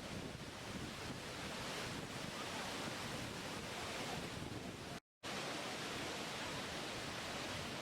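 Steady rushing water of a waterfall, an even noise with no rise and fall. The sound cuts out completely for a moment about five seconds in, then resumes unchanged.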